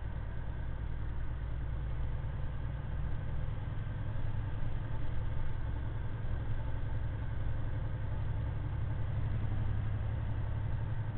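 Truck's diesel engine running steadily under way, a continuous low drone whose pitch climbs slightly a few seconds in.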